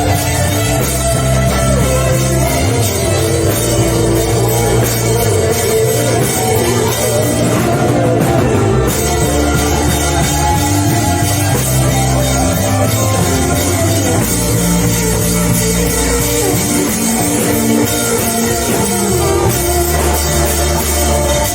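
Loud live band music with a drum kit and sustained bass notes changing every few seconds, typical of a worship band playing in a church service.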